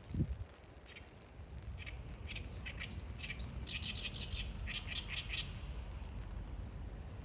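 A small bird chirping in a quick run of short, high notes, from about a second in until past five seconds, over a steady low rumble. A low thump comes right at the start.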